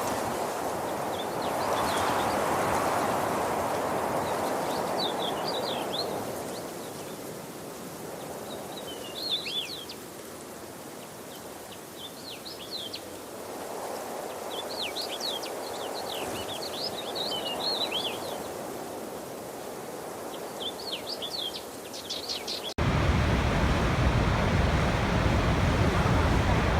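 Flowing water rushing softly, swelling and fading, with small birds chirping in short twittering bursts throughout. About 23 seconds in, it cuts abruptly to a much louder, deeper rush of water.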